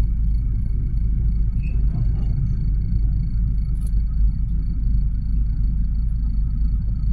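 Freight train of covered hopper cars rolling past a level crossing, a steady low rumble heard from inside a stopped car.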